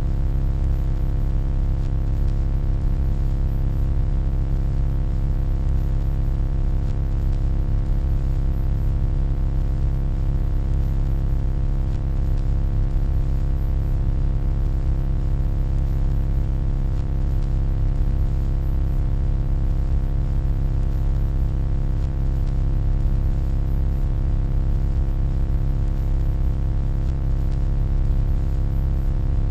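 Steady electronic hum: a deep, heavy low drone with many fainter steady tones layered above it and a faint high whine on top, unchanging in pitch and level.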